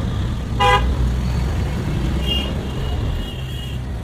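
Steady low rumble of road traffic, with a short, sharp vehicle horn toot about a second in and faint high-pitched beeps near the end.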